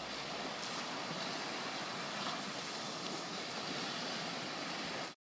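A steady, even rushing noise that cuts off abruptly near the end.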